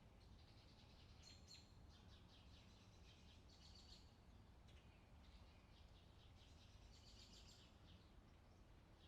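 Faint songbirds chirping and trilling in quick runs of notes, over a soft low background hum.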